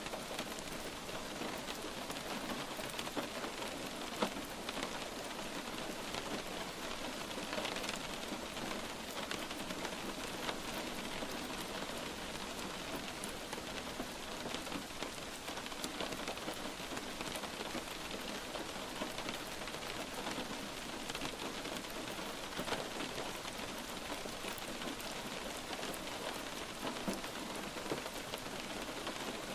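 Steady light rain falling on a surface, a continuous hiss with many small, distinct drop ticks scattered through it.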